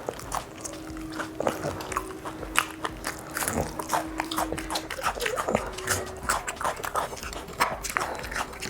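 Close-up eating sounds: wet chewing, lip smacks and many short crisp clicks of biting and crunching food eaten by hand. A faint steady tone hums underneath for the first half and again near the end.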